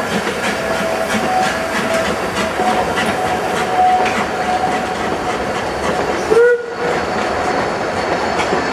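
A steam-hauled narrow-gauge train of carriages rolls past close by, its wheels clicking over the rail joints, with a thin squeal coming and going. About six and a half seconds in there is a brief louder sound with a short rising note.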